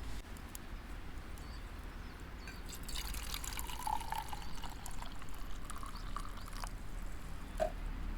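Liquid dripping and pouring, with a few short tonal blips and scattered small clicks over a steady low hum.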